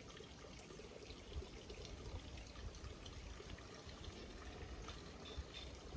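Water pouring steadily into a container being filled so it can warm up in the sun. It sounds faint and even.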